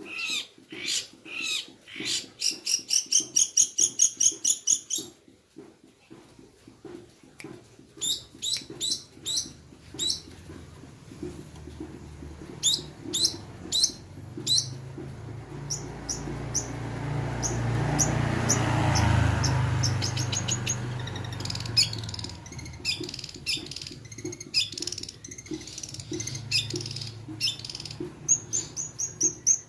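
Long-tailed shrike (cendet) singing a lure song: fast runs of sharp, high repeated notes and scattered chirps. A low rumbling noise swells and fades midway.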